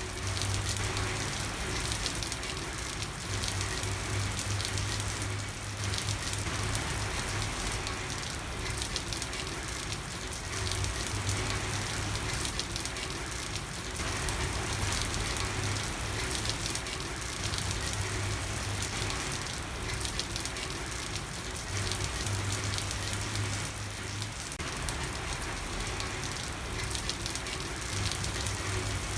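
Steady rain falling on a street, a dense even patter, with a low hum that comes and goes every few seconds underneath.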